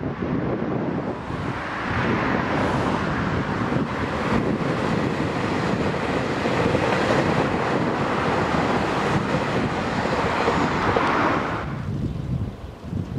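TEMU2000 Puyuma Express tilting electric train passing at speed: a rush of wheels on rails and air that builds over the first couple of seconds, holds for several seconds and drops away sharply near the end. Wind buffets the microphone underneath.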